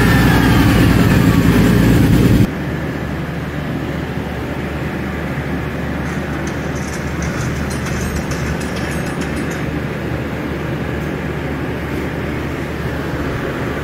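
Turbocharged BMW 323i inline-six running on a chassis dynamometer, loud with the rollers turning for the first couple of seconds. It then cuts abruptly to a steadier, quieter run with a low even hum.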